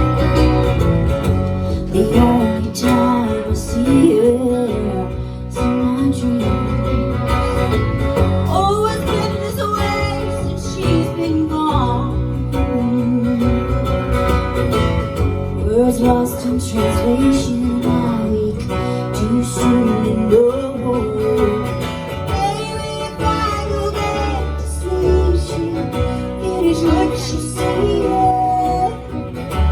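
Live country band playing a song, with guitar and a sliding melody line over a steady bass.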